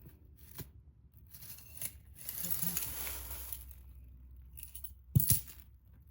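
Costume jewelry being handled and worked apart by hand: a few small clicks, a rustling, scraping stretch about two seconds in, and a sharp double knock near the end.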